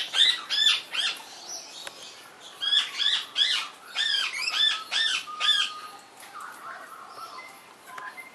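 Parrots calling: rapid runs of short, shrill, arched calls, about three or four a second, in two bursts, the second ending a little before six seconds in, followed by fainter chatter.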